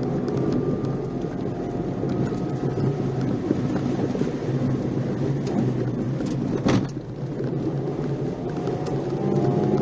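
Nissan March 12SR's 1.2-litre four-cylinder engine heard from inside the car while driving on a winding road: its pitch falls as it slows, a sharp knock comes about two-thirds of the way through, and the engine note rises again near the end as it accelerates.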